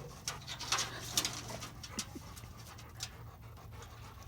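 Chocolate Labrador panting and whimpering: a few breathy puffs and short low whines, the sound of an excited, anxious dog.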